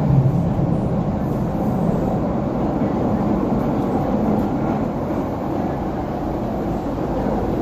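MTR C-Train metro train running, with a steady rumble of wheels on track and car noise.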